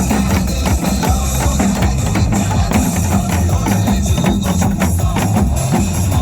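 Janggu (Korean hourglass drum) played in quick, dense strokes over a loud backing track with a steady bass beat.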